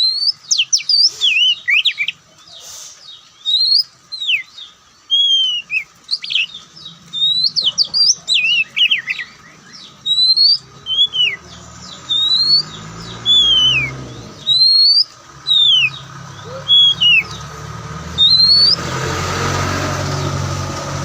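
Oriental magpie-robin singing: loud, varied whistled phrases of short rising and falling notes, repeated with brief pauses. Near the end the song stops and a loud, even rushing noise takes over.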